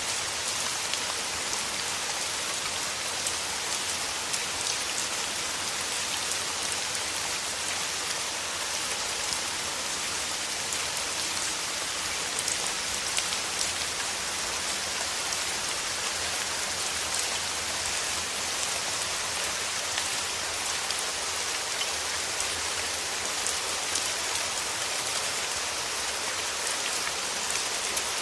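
Steady rain falling: a dense, even hiss with individual drops ticking through it.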